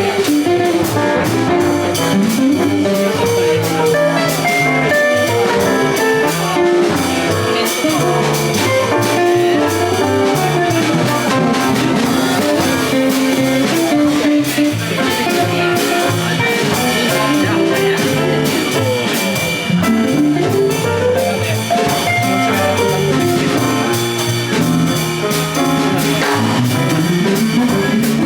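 A small jazz combo playing live: a running melodic line over drum kit, with guitar among the instruments.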